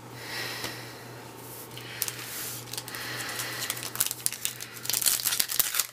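Trading-card pack wrapper crinkling and rustling with cards being handled. It starts as a soft rustle and turns into many quick crackles and clicks near the end.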